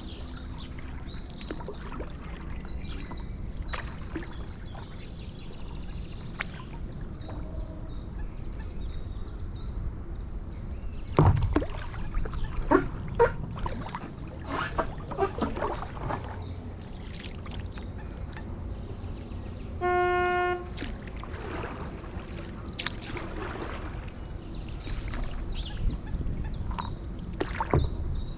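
Paddle strokes and water splashes from a stand-up paddleboard on a canal, with a cluster of knocks and splashes about eleven to sixteen seconds in, over a steady low rumble. Small birds sing in quick repeated trills during the first several seconds, and a short steady horn-like tone sounds once about twenty seconds in.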